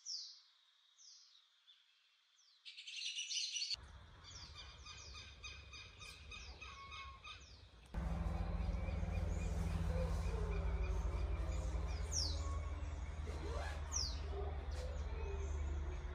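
Wild birds calling: short falling whistles, a dense burst of chattering about three seconds in, then quick repeated chirps. From about eight seconds in a steady low rumble comes in underneath, with a few more falling calls over it.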